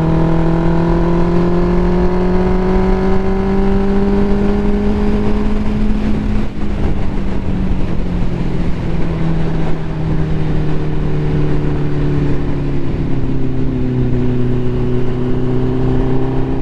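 Ducati motorcycle engine running under way, its pitch climbing slowly for the first few seconds, then dropping off about two-thirds through as the bike slows, with wind rumble underneath.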